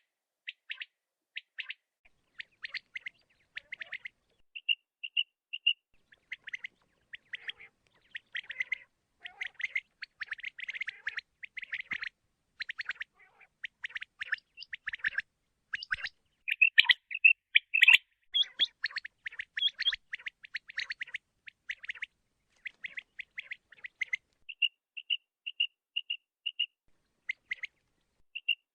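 Common quail calling: a long series of short, high, chirping calls, dense in the middle, with runs of four or five evenly spaced single notes about five seconds in and again near the end.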